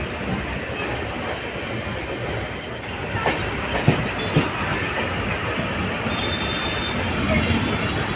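Passenger train running along the track: a steady rumble of the wheels, with two sharp knocks about four seconds in and a brief faint high squeal a little after six seconds.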